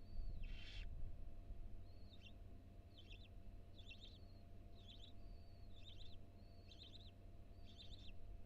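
Barn owls calling in a nest box. There is a short hissing screech about half a second in, then a run of short, high chittering calls, roughly one a second and coming faster toward the end, over a faint steady hum from the nest-box microphone.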